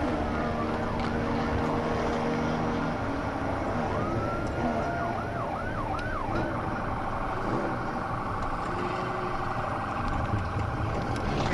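Police siren sounding over the steady rumble of a fast-moving patrol car. A few seconds in the siren sweeps up and down several times, then changes to a fast warble.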